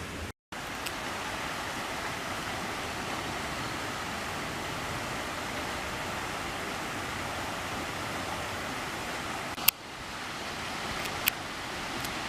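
Steady rushing of running water from a creek, with three sharp clicks near the end.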